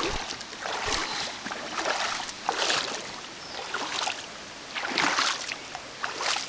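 River water rushing over rocks, swelling louder and softer at irregular intervals.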